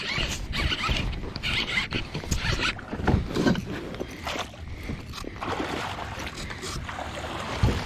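Water splashing and irregular knocks and clatter on a fishing kayak out on the lake.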